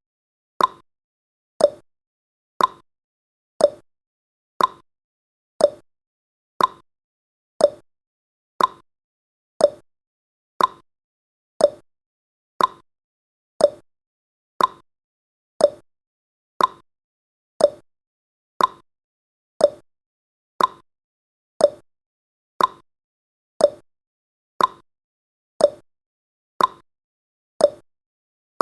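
Countdown timer's clock-tick sound effect: one short, sharp tick each second, evenly paced.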